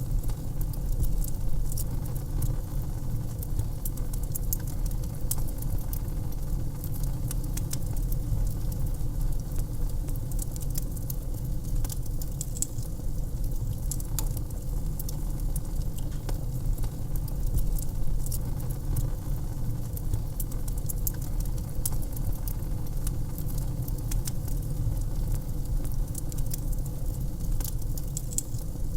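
Wood fire crackling in a fireplace: many small sharp pops and snaps over a steady low rumble of the flames.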